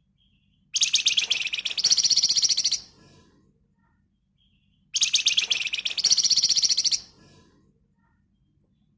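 Flamboyan songbird singing two loud, rapid chattering trills, each about two seconds long, with the second half of each trill higher and denser. This is the tight 'ngebren' trilling that bird keepers use as a lure call.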